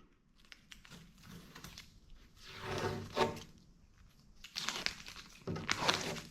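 Irregular scraping and rubbing strokes from hand work on body filler on a car's sheet metal, louder about three seconds in and again near the end.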